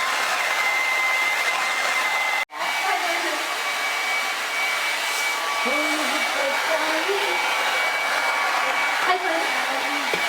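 A small fan motor running steadily, with a rush of air and a high, steady whine. It cuts out abruptly about two and a half seconds in and starts again with the whine slightly higher. Faint voices are heard under it in the second half.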